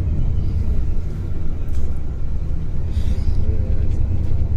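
Steady low rumble of a moving bus, engine and road noise heard from inside the passenger cabin.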